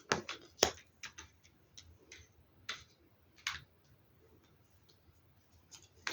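Tarot cards being handled and laid down on a table: a series of light clicks and taps, about eight in the first three and a half seconds, then a pause.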